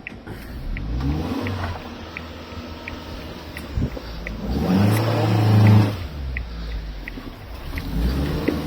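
Vehicle engine running, revving up briefly about five seconds in, with a light regular ticking about one and a half times a second from a turn-signal indicator.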